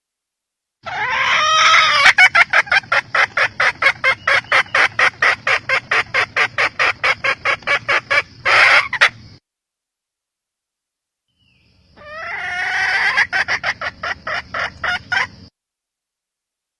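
Red junglefowl hen calling in two bouts. Each bout opens with a drawn-out note and runs into a fast, even string of clucks, about five a second.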